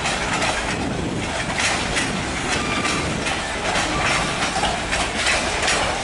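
A train passing, its wheels clicking over rail joints in a steady run of clacks over continuous rolling noise.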